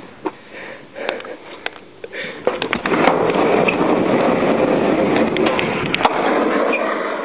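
A few knocks and clicks, then a steady rolling rumble with scattered clicks from about two and a half seconds in, fading out near the end.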